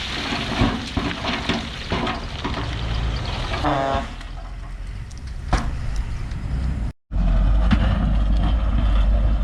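Heavy diesel earthmoving machinery running with knocks and clatter, and a short pitched tone a little before four seconds in. About seven seconds in the sound cuts out for a moment, then a louder, steady low diesel rumble takes over.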